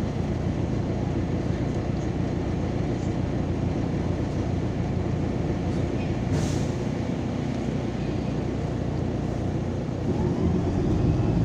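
Steady engine and road noise heard from inside a MAZ-203 city bus under way, with a short hiss about six and a half seconds in. Near the end the engine grows louder as the bus speeds up.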